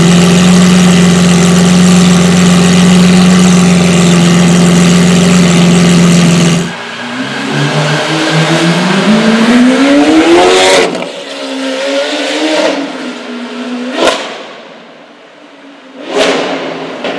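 Lamborghini Aventador SV Roadster's V12 through an aftermarket Powercraft exhaust. It holds a loud, steady drone for about six seconds, then the level drops and it revs up in a rising pitch that cuts off sharply about eleven seconds in. Two sharp cracks follow, near fourteen and sixteen seconds in.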